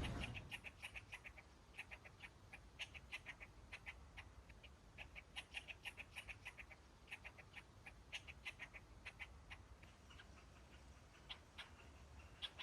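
Faint runs of short, high-pitched chirps from a small animal, several a second, pausing now and then.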